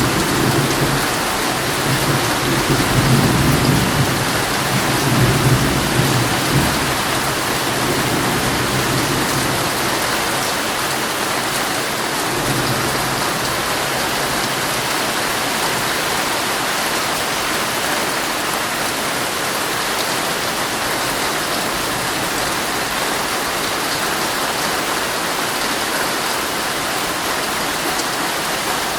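Heavy rain falling steadily on a tent, with a low rumble of thunder in the first several seconds that dies away, leaving only the steady rain.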